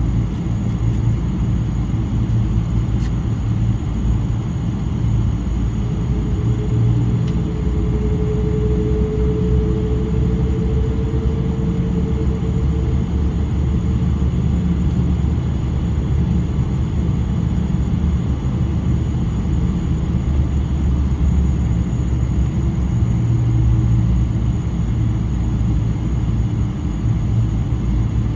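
Boeing 777-300's Rolls-Royce Trent 800 engines and airframe, a loud steady rumble heard inside the passenger cabin. A humming tone rises slightly through the middle and then fades.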